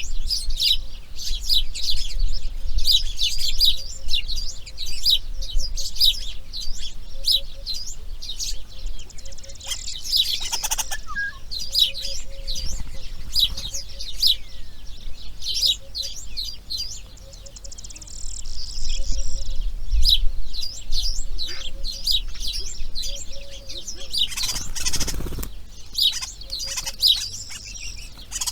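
Birds chirping in a rapid, continuous stream of short high calls. Two brief rustling swishes are heard, about ten seconds in and again near the end.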